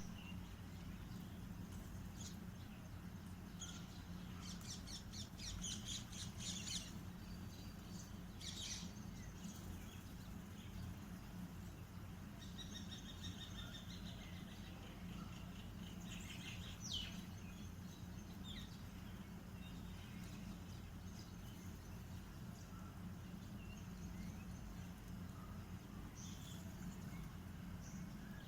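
Small birds chirping and calling in scattered bursts of quick, high notes, over a steady low background hum.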